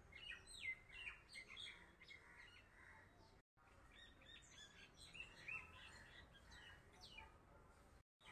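Faint birdsong: many short, high chirps and quick little sweeps from small birds, with the sound dropping out briefly twice.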